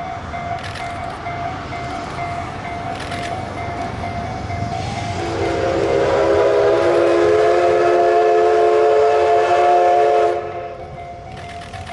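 A steam locomotive's whistle sounds one long, loud, chord-like blast about five seconds in. It rises slightly in pitch as it opens, holds for about five seconds, then cuts off sharply. Steady train running noise lies underneath.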